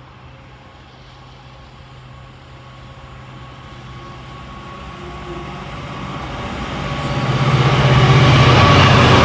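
GB Railfreight diesel locomotive approaching: a steady low engine note growing steadily louder, loudest in the last two seconds as the train draws near.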